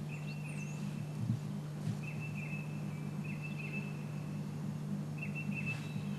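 Outdoor bird ambience: a high, thin trill on one pitch repeats four times, each lasting about a second, with one brief falling chirp about half a second in, all over a steady low hum.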